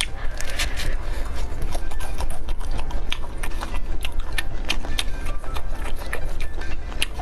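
Close-up mouth sounds of biting and chewing grilled meat from a skewer: a bite near the start, then irregular clicks and smacks of chewing, over a steady low hum.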